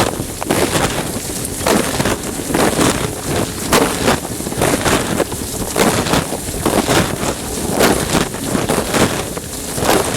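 Dishwasher wash cycle heard from inside the machine: water jets from the spray arm pelting and splashing against the plastic bag around the phone, in loud, uneven surges about once a second.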